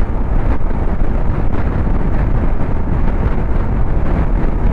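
Steady wind buffeting on the microphone of a Royal Enfield Himalayan 411 motorcycle riding at road speed, with its single-cylinder engine running underneath.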